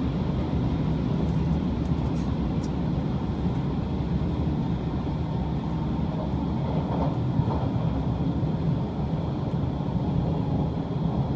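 Steady running noise of the Shiokaze limited express electric train on its rails, heard from inside a passenger car: a low, even rumble of wheels and track.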